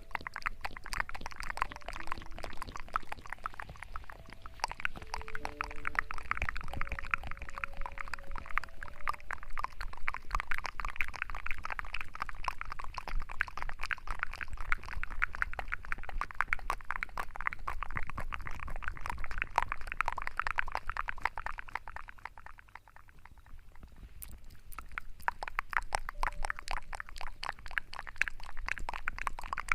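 Wet, crackling sounds close to the microphone, as from ASMR hair washing: lather and water being worked, easing off briefly about three-quarters of the way through before resuming.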